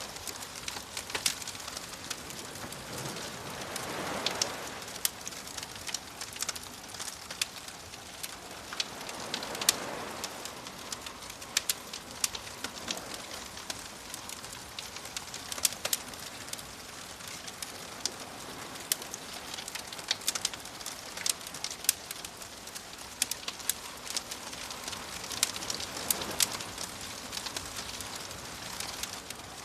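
Campfire crackling with frequent sharp pops, over soft ocean waves washing in and receding several times.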